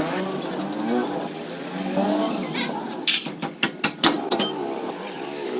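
A voice-like sound in the background, then a quick run of sharp metallic clinks and clicks between about three and four and a half seconds in, metal parts or tools knocking together during drive-axle repair work.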